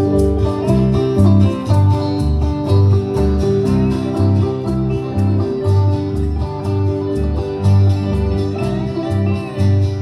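Acoustic bluegrass band playing: plucked strings and guitar over a steady, pulsing bass line, with no singing yet.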